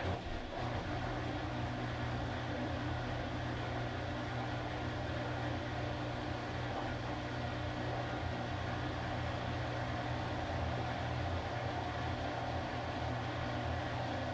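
Washing machine motor starting abruptly, then running steadily with a low hum and a whine.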